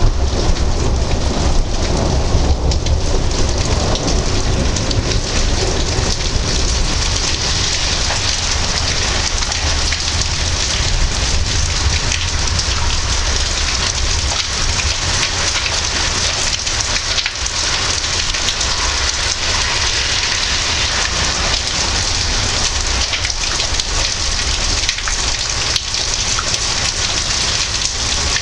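Heavy rain falling steadily in a thunderstorm, with low rolling thunder in the first several seconds that dies away under the rain.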